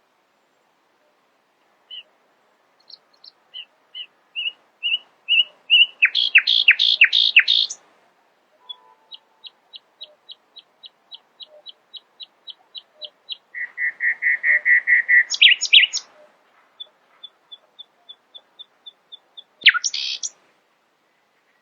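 Nightingale singing in separate phrases of repeated notes: a run of whistled notes getting louder into loud sweeping notes, a long run of quick thin notes, a fast low trill, and one sharp note near the end.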